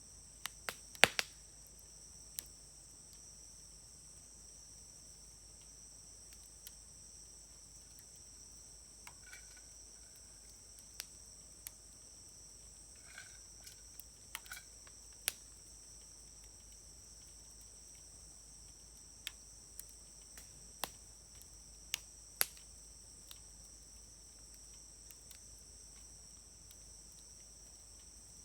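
Wood campfire crackling, with scattered sharp pops and snaps; the loudest cluster comes about a second in, the rest spaced irregularly. Under it runs a steady, high insect trill.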